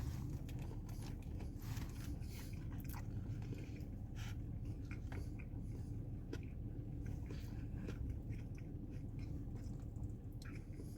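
A person chewing a mouthful of grilled chicken wrap (tortilla, lettuce, cheese, chicken): irregular soft crunches and wet mouth clicks, over a steady low hum.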